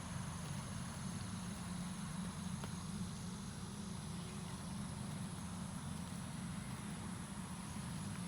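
1957 Cushman's single-cylinder engine idling steadily, still cold just after a cold start.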